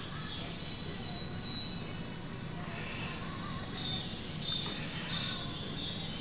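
A small bird chirping: a quick run of short high notes, a denser high trill in the middle, then a few thinner high whistled tones.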